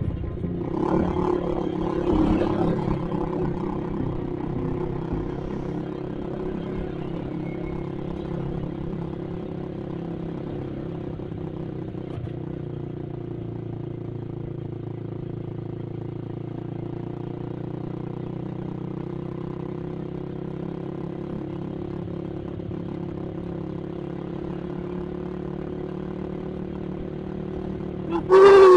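Yamaha Vixion motorcycle's single-cylinder four-stroke engine running steadily at cruising speed, heard from the rider's seat, a little louder for the first few seconds. Near the end comes a loud, short horn blast from a passing vehicle, its pitch falling.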